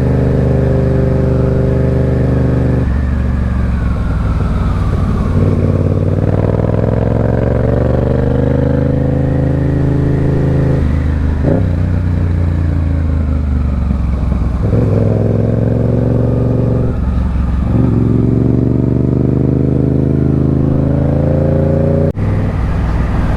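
Motorcycle engine under way, its pitch climbing and then dropping sharply several times as the rider shifts through the gears. There is a brief sharp click near the end.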